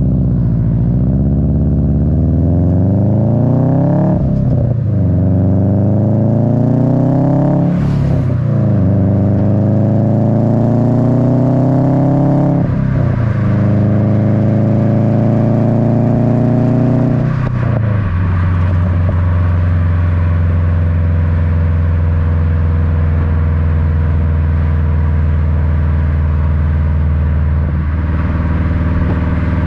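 Subaru WRX's turbocharged EJ255 flat-four through an Invidia N1 catback exhaust, heard from right at the tailpipes: the engine pulls up through the gears, its pitch climbing and dropping at each shift four times. After the last shift it settles into a steady low rumble, easing slowly down in pitch.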